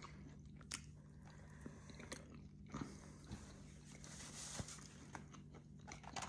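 A person quietly chewing French fries with ketchup, with a few faint mouth clicks over a low steady hum.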